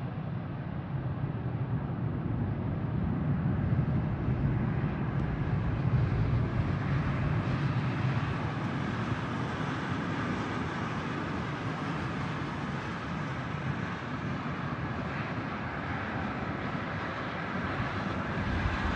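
Boeing 777-300ER's twin GE90-115B jet engines, heard as a steady broad jet rumble that swells slightly a few seconds in.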